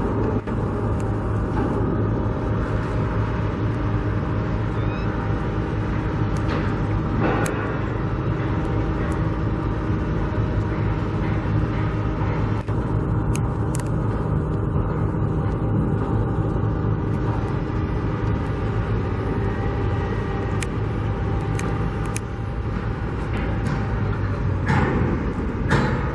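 Steady low rumble of vehicle engines, with a few scattered clicks and knocks, more of them near the end.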